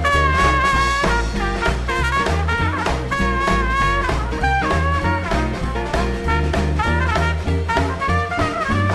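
A live swing band playing, with horns holding notes over upright bass and drums keeping a steady swing beat.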